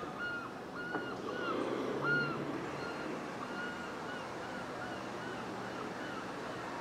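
A bird calling over and over: short notes that rise and fall, about two a second, over a steady background noise.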